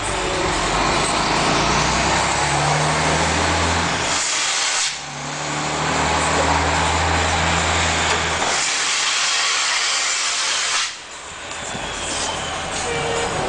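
Straight-piped Cummins diesel of a Ford Cargo 4331 truck running loud and hard through its open exhaust, with a steady low engine note. The sound drops off briefly twice before coming back.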